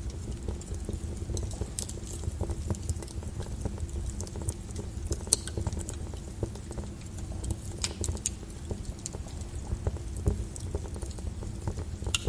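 Fireplace crackling, with irregular sharp pops and snaps, layered over a steady wash of rain on a window and a low rumble.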